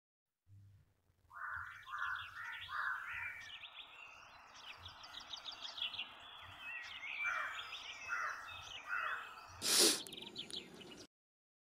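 Several birds singing and chirping in short repeated phrases over a faint outdoor background. A short, loud noise comes near the end, the loudest moment, and the sound cuts off suddenly about a second later.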